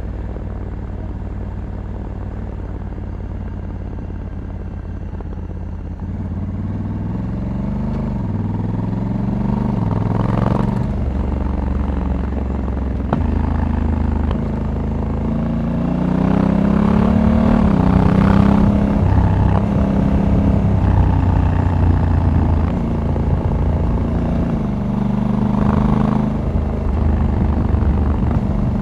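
Honda Africa Twin 1100 DCT's parallel-twin engine running low and steady, then pulling harder from about six seconds in. The engine note climbs and drops back several times as the dual-clutch transmission shifts up.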